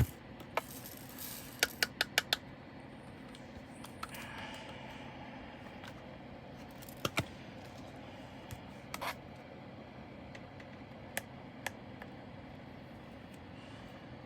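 Small hard clicks and soft scrapes of hands working at a diamond painting kit, handling the little plastic drills and their bags. There is a quick run of four clicks about two seconds in, then single clicks every few seconds.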